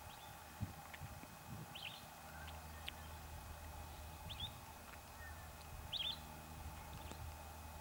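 A bird giving short, high chirps every second or two, over steady outdoor background noise and a low hum.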